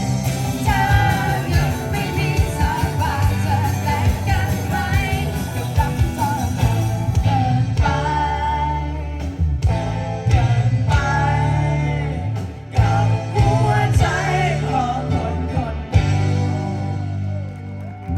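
Pop-rock band playing, with a lead singer's melody over bass guitar and drums.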